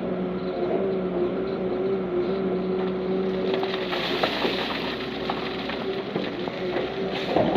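Heavy diesel earthmoving machinery running steadily, with scattered knocks and clanks and a louder clank near the end.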